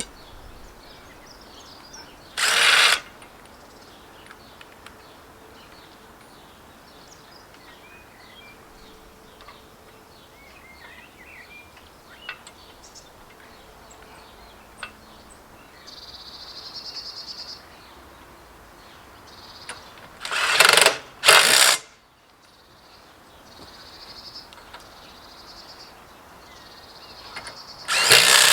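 Birds chirping and singing in the background, with four short, loud bursts of noise from work on the tractor: one early, two in quick succession about two-thirds through, and one at the very end.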